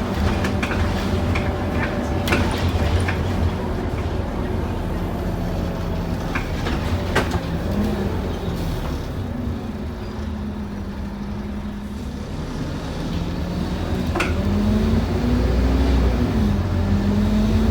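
Interior sound of a Scania N230UD OmniCity double-decker bus under way: its five-cylinder diesel engine drones over road noise, with a few sharp rattles. The engine eases off through the middle, then pulls again near the end, its pitch rising and falling as it works through the gears.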